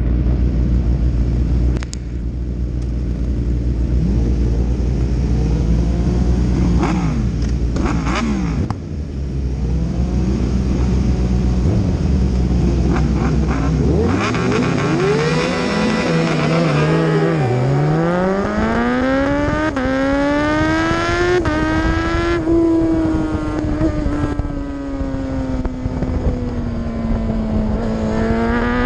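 Racing motorcycle engine running at a steady pitch with a few brief throttle blips, then from about halfway accelerating hard: rising revs broken by sudden drops at each upshift, as the bike pulls away through the gears.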